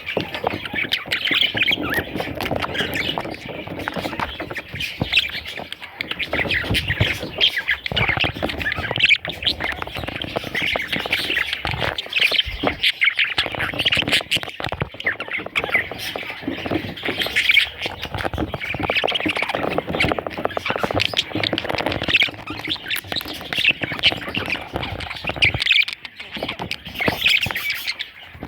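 Budgerigars chattering and squawking continuously, with many short overlapping calls.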